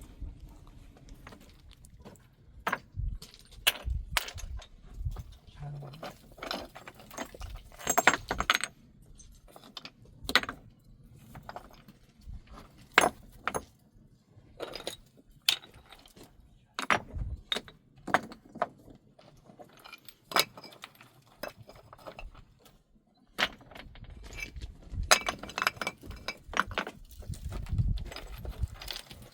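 Irregular clinks and knocks of hard objects being handled and set down, some in quick clusters.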